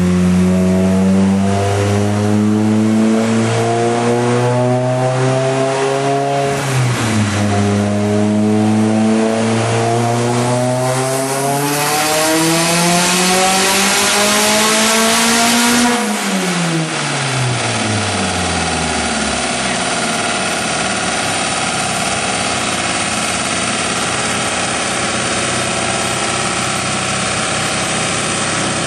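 Mitsubishi Lancer Evolution's turbocharged four-cylinder, fitted with a 20G turbo, at full throttle on a chassis dyno. The revs climb, drop sharply once about a quarter of the way through, then climb again with a rising hiss to a peak just past halfway. After that the engine winds down and settles to a steady lower note.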